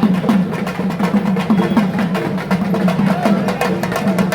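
Fast, continuous drumming with rapid strokes, over a low wavering chant of many voices: the percussion of the pettai thullal procession.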